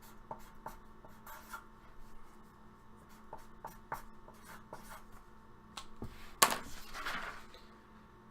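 Hands handling packaging: scattered light clicks and taps, then a louder scrape and rustle about six and a half seconds in, dying away after about a second.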